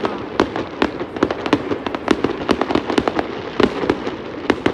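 Fireworks going off: an irregular rapid series of sharp bangs and pops, several a second, some louder than others.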